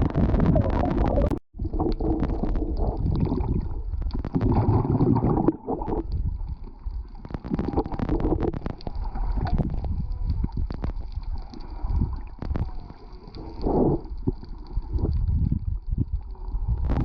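Underwater sound of whale song: drawn-out pitched calls that rise and fall, heard over a low rush and gurgle of water with scattered clicks.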